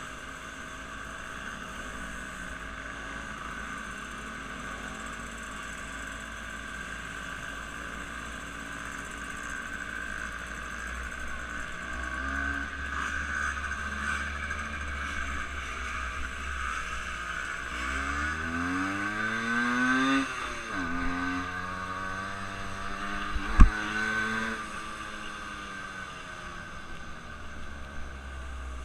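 An engine running steadily, then revving up in a rising pitch for a couple of seconds before dropping back to a lower steady run, with one sharp click a few seconds later.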